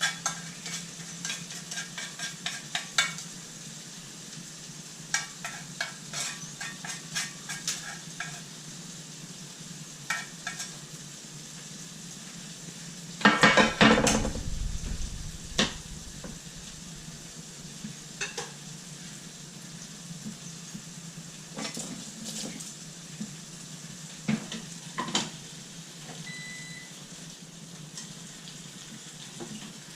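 Food sizzling in a frying pan, with utensils clicking and scraping against the pan and a louder clatter about thirteen seconds in.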